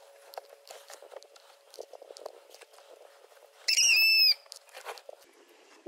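A single loud, high-pitched bird call about four seconds in, lasting about half a second and bending slightly up and then down, over faint scattered clicks and taps from handling a hot glue gun on cardboard.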